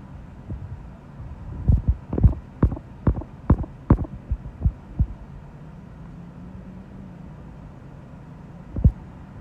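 Gusty wind buffeting the microphone: a run of loud, low thumps about two a second for a few seconds, then one more near the end, over a low steady hum.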